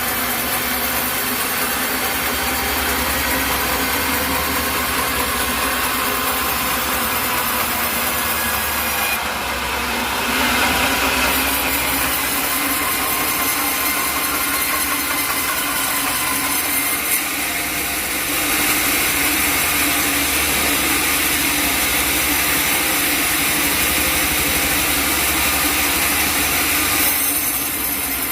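Engine-driven sawmill running steadily, its blade cutting through an acacia log in stretches: briefly about ten seconds in, and again from about eighteen seconds until just before the end, each cut adding a harsher, hissing rasp over the engine.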